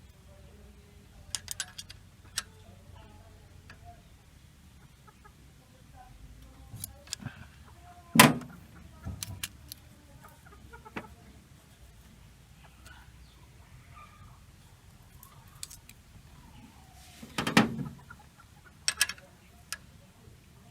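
Scattered metallic clicks and knocks of hand tools working on a Toyota 4K engine's valve rocker gear, the loudest about eight seconds in and again around seventeen seconds. Chickens cluck in the background.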